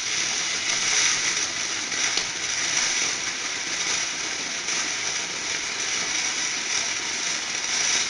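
A lit ground firework burning with a steady, rushing hiss, with faint crackles here and there.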